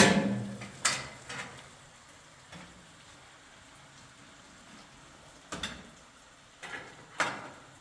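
A loud sharp knock, followed by several quieter knocks spread over the next seven seconds.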